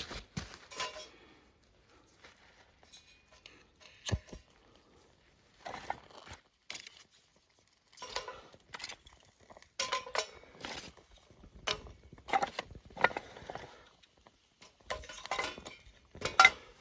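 Camp cookware and utensils being handled: irregular clinks, knocks and clatters, the sharpest knock near the end.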